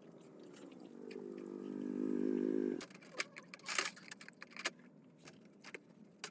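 A small motor runs with a steady hum, growing louder, and cuts off about three seconds in. Metallic clicks and clinks follow, with one short noisy burst.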